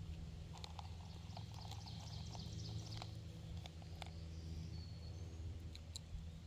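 Songbirds singing in rapid series of high chirps, with a clear whistled note near the end, over a steady low hum; a few sharp clicks.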